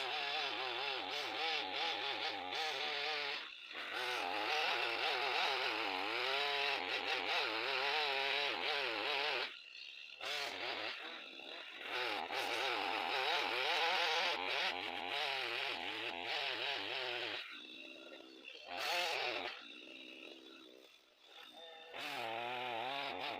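Two-stroke chainsaw running at full throttle while cutting wood, its engine pitch wavering as it bogs and recovers under load. It eases off briefly several times and drops away for a moment near the end before revving up again.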